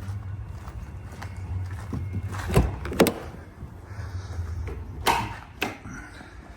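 Rear cargo doors of a Peugeot Boxer refrigerated van being unlatched and opened: four sharp metal clunks and clicks from the handle and latches, in two pairs, over a steady low hum.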